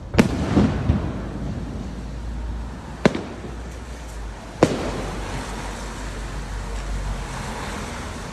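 Aerial fireworks bursting: three sharp bangs, the first right at the start followed by a brief crackle, then two more about three and four and a half seconds in, over a steady low rumble.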